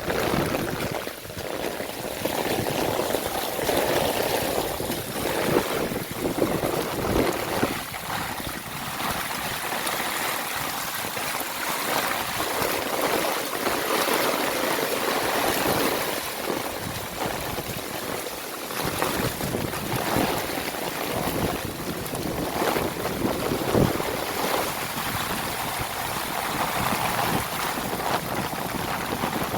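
Heavy rain pouring down in a steady hiss, with a dense patter of drops splashing.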